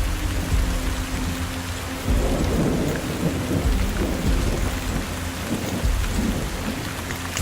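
Rain falling steadily, with uneven low rumbling underneath; it swells about two seconds in.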